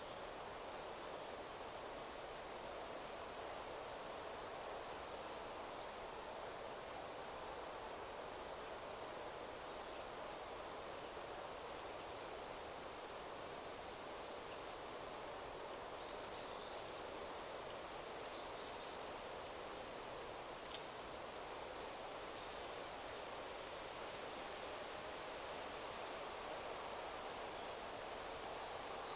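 Wind rustling steadily through forest trees, with scattered short, high-pitched bird chirps throughout, two louder ones about ten and twelve seconds in.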